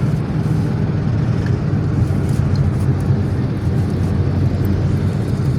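Steady, loud low drone of a vehicle's engine with running noise, unchanging throughout.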